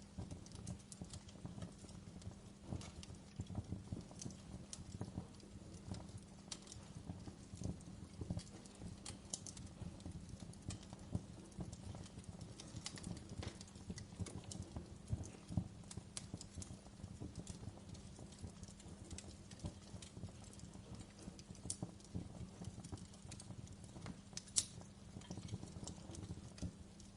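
Wood fire crackling in a fireplace: irregular snaps and pops over a low steady hum, with one sharper pop near the end.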